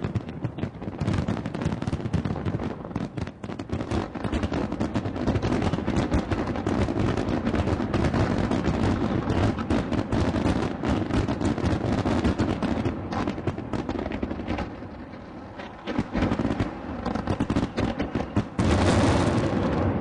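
New Year's fireworks display: a dense, continuous barrage of bangs and crackles, easing off for a while about three-quarters of the way through, then swelling into a loud surge near the end.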